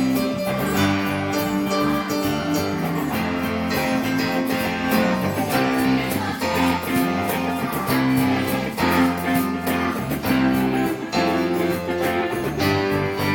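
Instrumental music led by strummed guitars, playing a tune over a steady rhythm.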